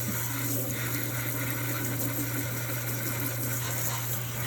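Kitchen tap running into the sink, a steady even hiss of water with a constant low hum.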